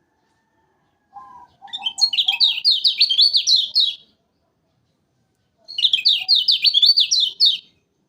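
Kecial kuning songbird singing two loud, rapid phrases of quick chirping notes, a few notes a second, about two seconds each, the second starting about six seconds in.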